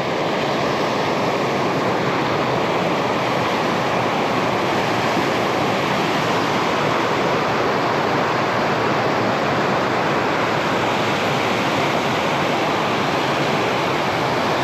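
A fast-flowing moorland river rushing over rocks close by, a loud steady rush of water.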